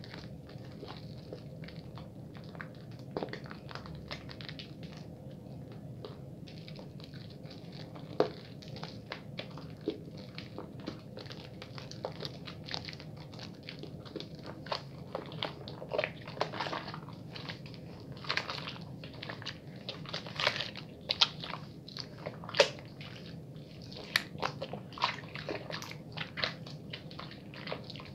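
Hands lathering a wet bar of soap close up: irregular wet squelching and crackling clicks, growing busier and louder about halfway through, over a steady low hum.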